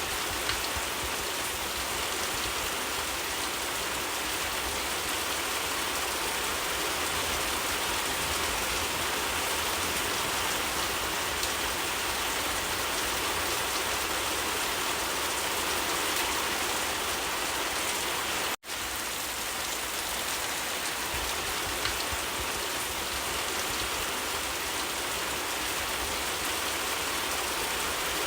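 Steady rain falling, an even hiss with no change in strength. A split-second gap in the sound about two-thirds of the way through.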